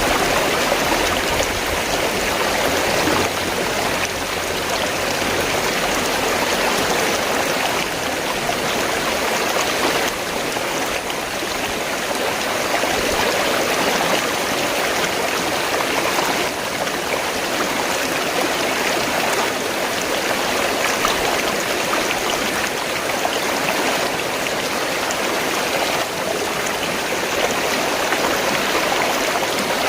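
River water flowing steadily, an even rushing wash with no distinct splashes or breaks.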